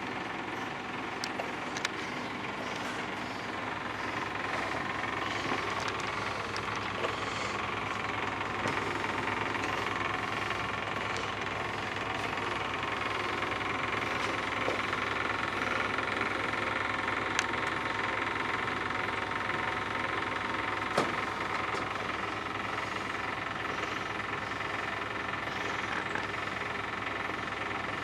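A machine running steadily with an even drone, with a few short clicks.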